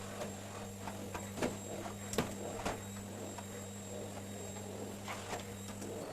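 A steady low electrical hum that cuts off near the end, with scattered light clicks and knocks of household items being handled.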